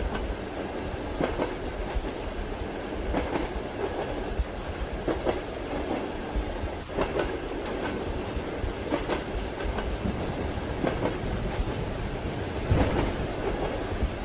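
Train wheels clacking over rail joints about every two seconds, over a steady rolling rumble and rain hiss. A louder low rumble comes near the end.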